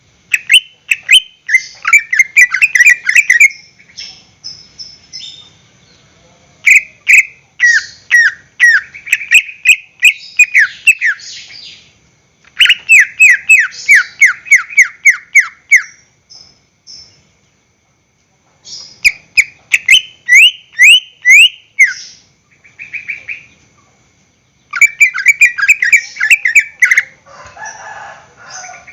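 Green leafbird (cucak ijo) singing: phrases of fast, sharp, falling whistled notes, each phrase a few seconds long, with short pauses between them.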